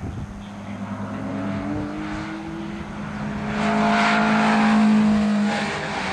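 Toyota MR2 SW20 with a BEAMS 3S-GE four-cylinder engine accelerating out of a corner and passing close by. Its engine note climbs, then holds steady and is loudest as the car goes past about four to five seconds in, then drops away as it eases off.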